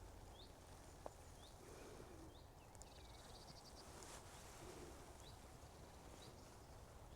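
Faint birdsong: a bird repeating a short rising chirp roughly once a second, with a brief trill about three seconds in, over a steady low outdoor rumble.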